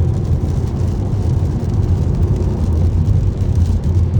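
Steady low road rumble and tyre noise inside the cabin of a Tesla Model S Plaid driving on a wet road in heavy rain.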